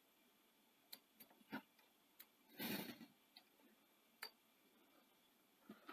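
Near silence with a few faint, scattered small clicks and one brief rubbing scrape a little under halfway through, from hands working a rubber drive belt onto the pulleys of a Betamax video recorder's tape deck.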